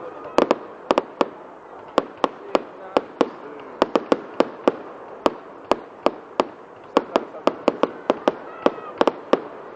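Fireworks going off in a rapid, irregular string of sharp bangs and cracks, about three a second, over a constant background crackle and rumble of other fireworks.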